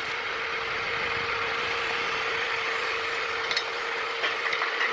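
A machine running steadily: an even hum with a hiss over it, and a few light clicks near the end.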